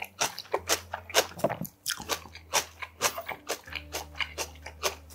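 Close-up chewing of a mouthful of golbaengi muchim, spicy whelk and vegetable salad: wet, crisp crunches and bites, several a second in an irregular rhythm.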